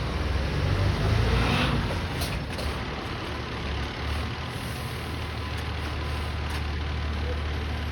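Garbage truck's diesel engine running steadily, with a brief hiss about a second and a half in and a few faint clicks soon after.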